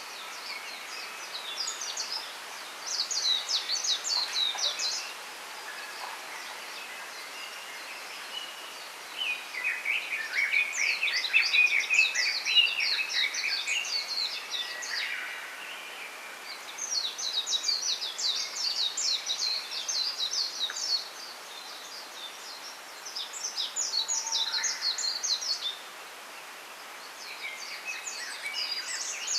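Small songbirds singing in repeated bouts of rapid, high twittering phrases, each a few seconds long with short pauses between. A steady faint hiss of outdoor ambience lies underneath.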